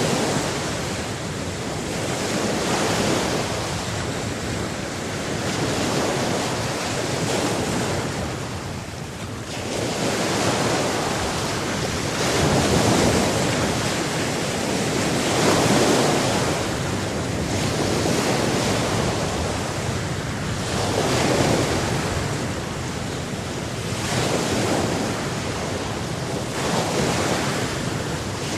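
Sea surf: waves breaking and washing in one after another, the wash swelling and falling back every two to four seconds.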